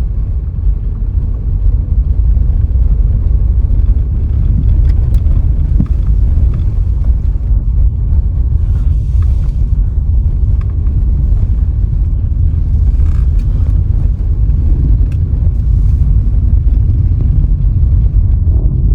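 Steady low rumble of a car driving along a road: engine and tyre noise at cruising speed, with brief patches of higher tyre hiss.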